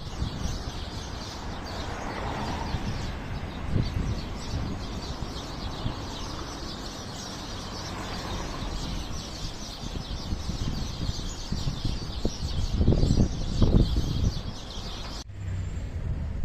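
Many small birds chirping busily over a steady low outdoor rumble, which grows louder and uneven a couple of seconds before the end.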